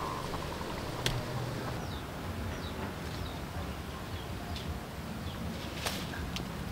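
Outdoor rural ambience: a steady low rumble with a few short, high, falling bird chirps and a handful of sharp clicks, the loudest about a second in.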